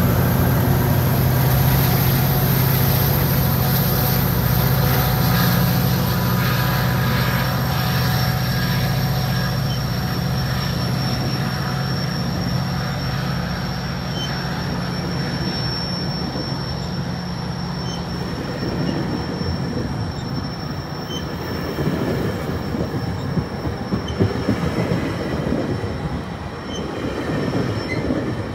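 A GO Transit train passing close by: the diesel locomotive's steady low engine drone carries on for the first two-thirds and fades, with a thin high wheel squeal in the middle. From about two-thirds in, the double-deck coaches roll past with a rapid, irregular clatter of wheels over the rail joints.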